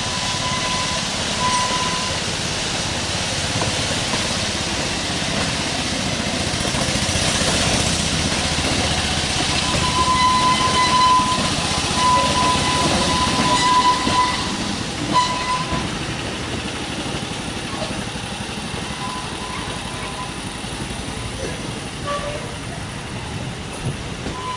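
Model locomotive running on a garden railway, a steady noisy run with a thin high tone that comes and goes, busiest around the middle before easing off.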